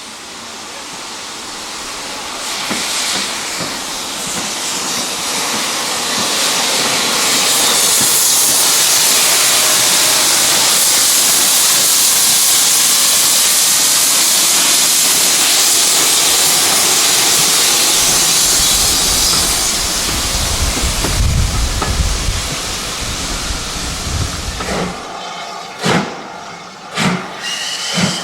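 Steam locomotive passing with a loud hiss of steam that builds, holds for several seconds and fades, followed by a low rumble. Near the end come sharp clacks of train wheels over rail joints.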